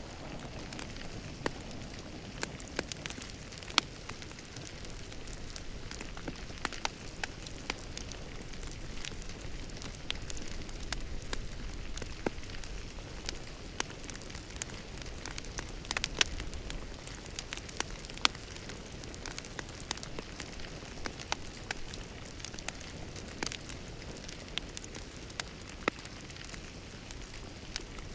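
Fireplace fire crackling: a steady soft hiss with frequent sharp pops at irregular intervals.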